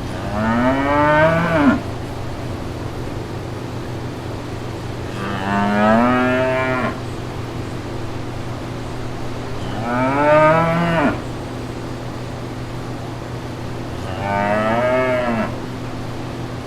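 Cow mooing four times, one call about every four to five seconds, each rising in pitch and dropping off at the end, over a steady low hum.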